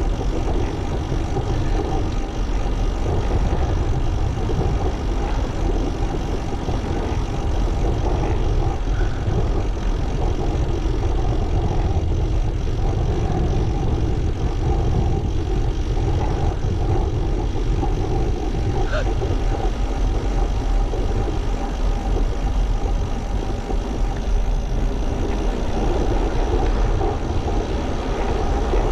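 Steady wind rumble on the action-camera microphone while cycling, with tyre and road noise underneath.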